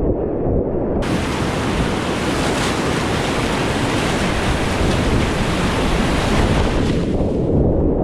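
Rushing whitewater rapids, a loud steady roar of water close to the microphone with wind and splash buffeting. About a second in the sound suddenly turns brighter and hissier, then turns duller again near the end.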